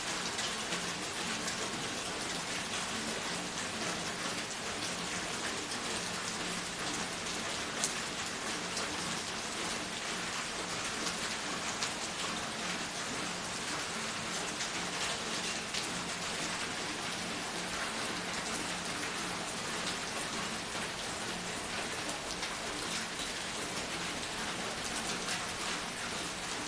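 Steady rain falling, a dense even hiss with individual drops pattering and ticking on a hard surface, one sharper drip about eight seconds in.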